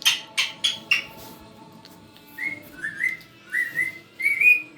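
Parrot whistling: a run of about six short, rising whistles, growing louder toward the end, after four short, harsh chirps in the first second.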